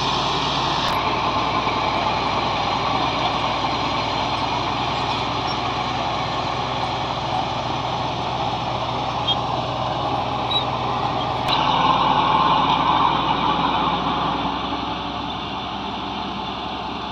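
Bulldozer's diesel engine running steadily under load while levelling ground, growing louder about two-thirds of the way through, then easing off.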